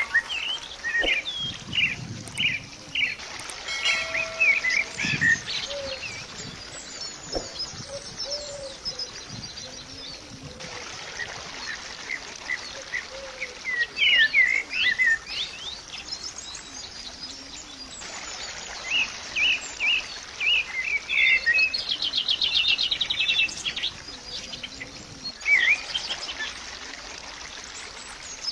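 Birds chirping and singing, many short overlapping calls, with a rapid trill about three quarters of the way in.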